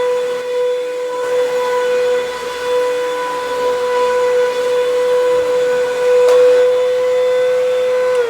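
Hoover WindTunnel 2 upright vacuum's 12-amp motor running with a loud, steady whine. Right at the end it is switched off and the whine falls in pitch as the motor spins down.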